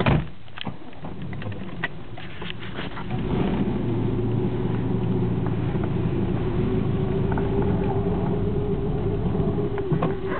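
A car door shuts with a thump, then the 1985 Nissan 300ZX Turbo's turbocharged V6 runs steadily, getting louder about three seconds in.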